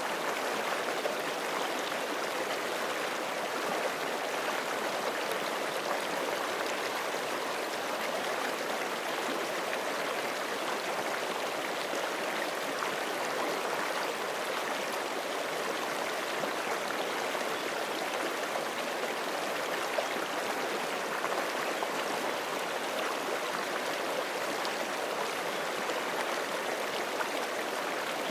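A forest creek flowing over rocks: a steady, even rush of water with small splashes and trickles.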